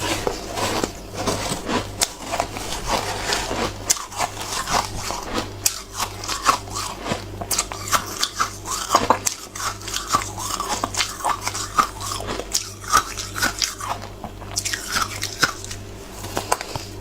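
A person biting and chewing hard frozen ice: many crisp crunches and cracks in quick, irregular succession, over a steady low hum.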